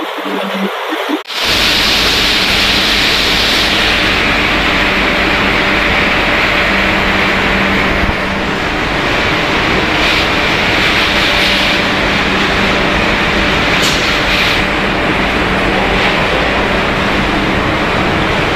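Potato pellet production line machinery running: a loud, steady, dense rush of noise with a faint steady hum in it, starting abruptly about a second in.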